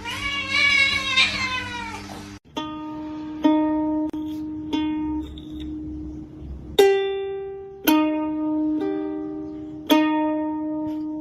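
A cat meows for about two seconds, then a sudden cut to a ukulele plucking single notes of a slow tune, each note ringing out and fading.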